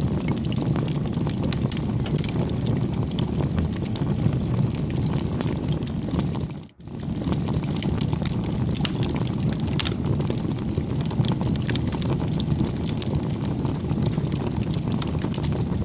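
Wood fire crackling: a steady low rumble of flames with frequent sharp pops and snaps, briefly dipping out a little before halfway.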